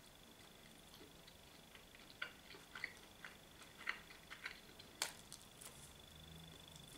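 Quiet close-up chewing of a mouthful of pizza: small irregular wet mouth clicks and smacks, with the sharpest click about five seconds in.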